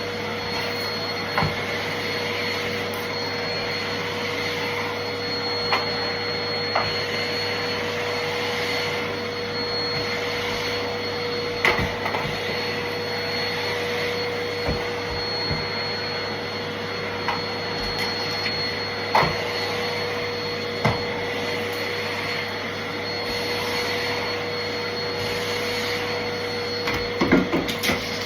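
Vacuum cleaner running steadily with a constant whine, with occasional short clicks and knocks along the way and a small cluster of them near the end.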